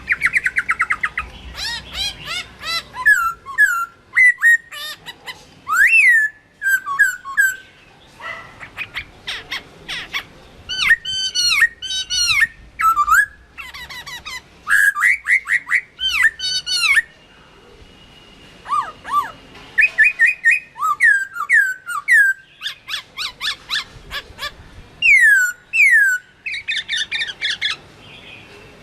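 Chinese hwamei singing: a loud, varied song of whistled phrases, each made of a note repeated several times in quick series, with short pauses between phrases.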